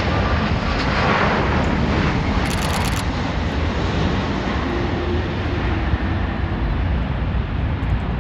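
Jet noise of a Japan Airlines Airbus A350-900 landing: a steady, loud rush from its Rolls-Royce Trent XWB engines, holding at a level throughout.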